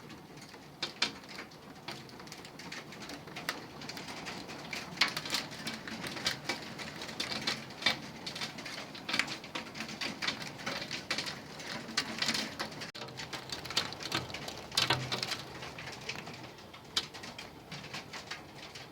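Rain patter with irregular sharp taps of drops striking hard surfaces, as a hailstorm dies away.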